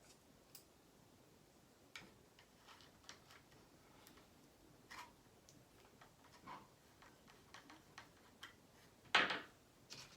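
Scattered small clicks and taps of tools and small parts being handled during bench assembly of a model helicopter, with one louder knock about nine seconds in.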